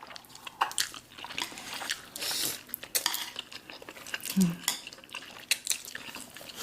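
Eating black bean noodles: utensils click and clink against a bowl again and again, with a wet stretch of slurping about two seconds in and a short hum of approval a little past the middle.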